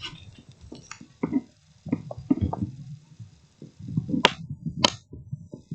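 Irregular small clicks, taps and knocks of objects being handled and set down on a table, with two sharper clicks about four and five seconds in.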